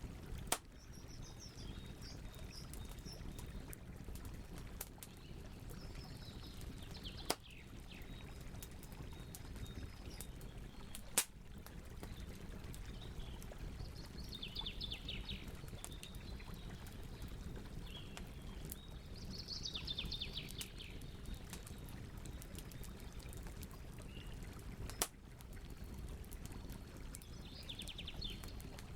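Campfire crackling over a steady low rush, with four sharp pops of burning wood. Birds chirp in short series several times in the background.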